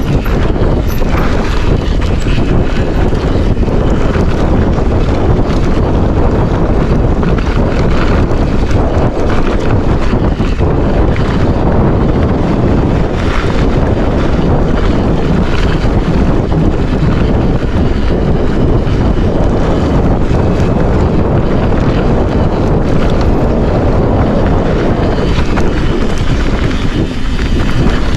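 Wind buffeting the microphone of a camera carried by a mountain biker riding downhill.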